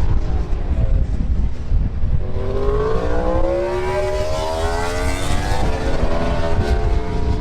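Racing motorcycle engine running over a heavy low rumble; from about two and a half seconds in its pitch rises as it revs, then wavers up and down.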